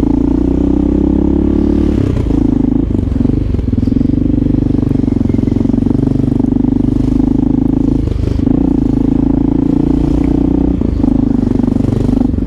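Motorcycle engine running at a steady throttle while riding in traffic, its note dipping briefly about two, eight and eleven seconds in.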